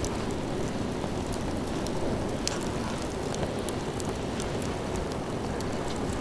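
Wood campfire burning, with a steady rushing hiss and frequent irregular sharp crackles and pops.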